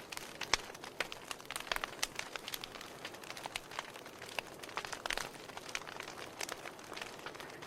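Wood fire in a fireplace crackling: irregular sharp pops and snaps, several a second, over a steady soft hiss.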